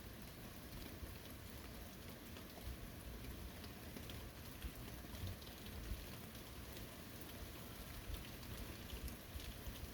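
Steady early-summer rain falling, with scattered raindrop ticks and a low rumble now and then.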